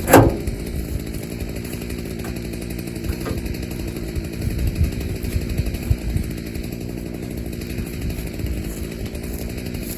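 Small petrol engine of a garden wood shredder running steadily at an even speed, with a couple of light knocks.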